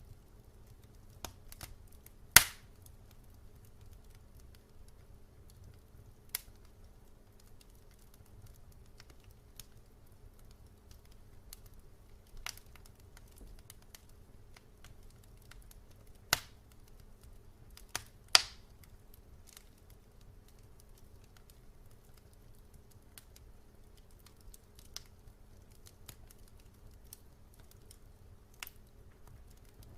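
Wood fire crackling in a fireplace: scattered sharp snaps and pops over a faint low rumble, with a few loud pops, the loudest about two seconds in and around eighteen seconds.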